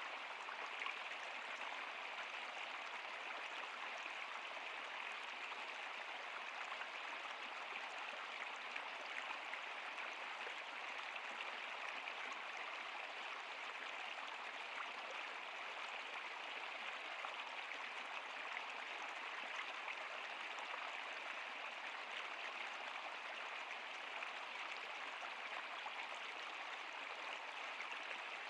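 Water in a river or stream flowing steadily, an even rushing sound that does not change.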